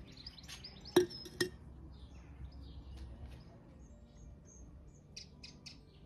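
Small birds chirping and twittering, with two sharp knocks about a second in, half a second apart, the loudest sounds here, and three quick high chirps near the end.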